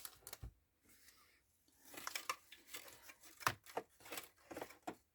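Paper handling on a craft table: soft rustling and a scatter of small clicks and taps as loose paper pieces are gathered up, getting busier about two seconds in.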